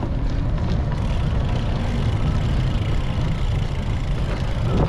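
Steady low rumble of wind and road noise on a GoPro action camera's microphone while cycling.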